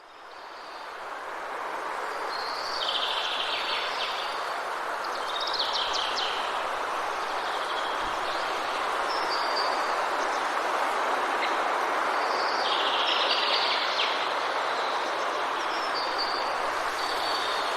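Forest ambience: small birds calling in short chirping phrases over a steady rushing noise bed. The noise fades in at the start, and the bird phrases come in clusters, a few seconds in and again later.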